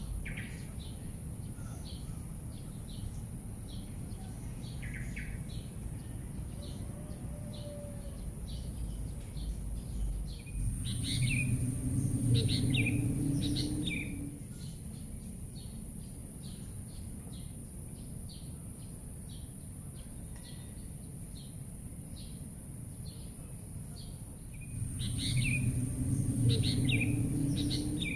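Birds chirping, with short chirps repeated about twice a second over a steady high whine and a low background rumble. Twice, near the middle and again near the end, the low rumble swells louder for a few seconds, with a burst of louder calls.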